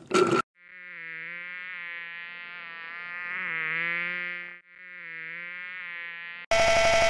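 Buzzing-insect sound effect: a fly-like drone that wavers slightly in pitch and swells louder, stops for a moment, then starts again. Near the end, a much louder steady buzzing tone cuts in abruptly.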